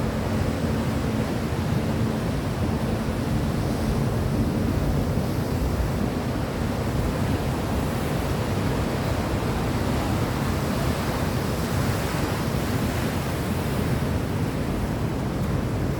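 Steady rushing noise like wind and surf, even throughout, with a faint low hum in the first few seconds.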